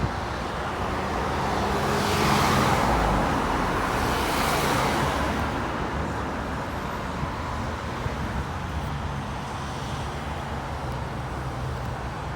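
Road traffic: a motor vehicle passes close by, its engine and tyre noise swelling from about two seconds in and fading after about five seconds, leaving steady background traffic.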